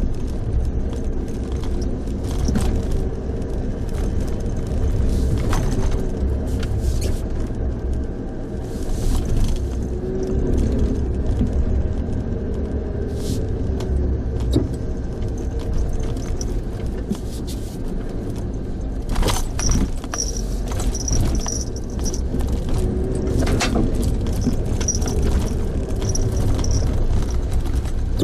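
Car on the move, steady low engine and road rumble with small rattles and clicks throughout.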